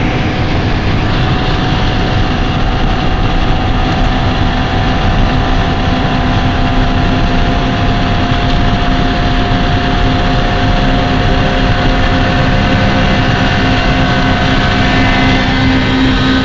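Honda del Sol's B16 four-cylinder VTEC engine running hard at steady revs at motorway speed, heard from inside the cabin, mixed with loud wind and road noise.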